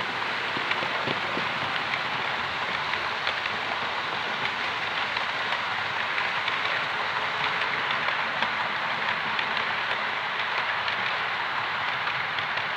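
Model train running along the layout's track: a steady rushing rattle of small wheels on rail and the motor, with scattered faint clicks.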